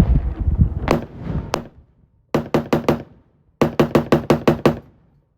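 Pioneer Arms AK-47 rifle in 7.62×39 fired fast: two single shots, then a quick string of four and a longer string of about eight, some six to seven shots a second. It runs through the strings without jamming.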